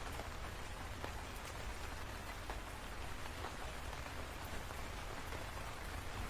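Steady rain falling: an even hiss dotted with individual drop ticks, over a steady deep rumble.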